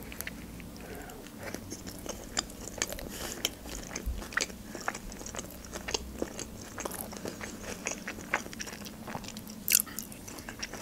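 A person chewing a mouthful of hamburger, with many small mouth clicks and smacks scattered throughout.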